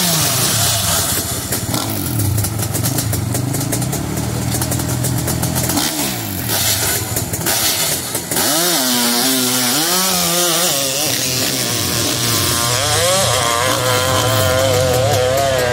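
A 600cc-class hillclimb motorcycle's engine revving hard under load, its pitch rising and falling in quick waves as the throttle works; about eight seconds in the note dips, then climbs and wavers through to the end.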